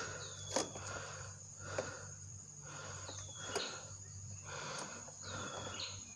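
Honda EX5 FI's 110 cc single-cylinder four-stroke engine idling with a steady low hum through a cut-down standard exhaust. Soft breathy pulses come about once a second, and a faint falling chirp is heard three times.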